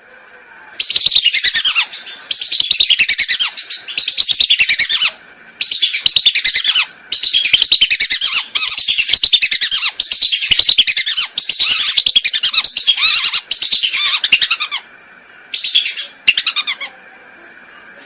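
Lesser whistling duck calls played as a lure recording: a dozen or so loud, chattering phrases, each about a second long, made of rapid notes falling in pitch, with brief pauses between phrases. A faint steady hum runs underneath.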